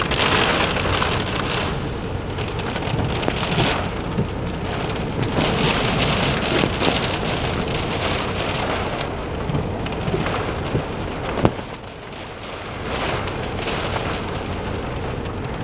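Heavy rain pelting a car's roof and windows, heard from inside the cabin. It swells and eases in waves, with one sharp tap about three-quarters of the way through.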